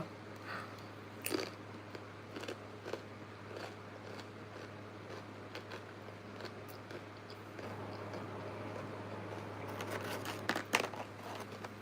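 Close-miked eating: scattered crunchy bites and chewing, with a louder cluster of crunches near the end.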